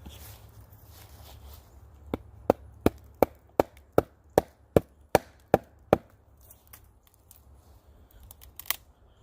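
Wood-on-wood knocking: a pointed wooden baton being hammered into the cut in a tree, about eleven sharp, even blows in quick succession, then a single knock near the end.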